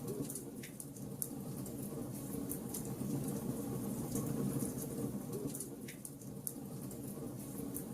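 Wood logs burning in a fireplace, crackling with many small irregular pops over a steady low rumble.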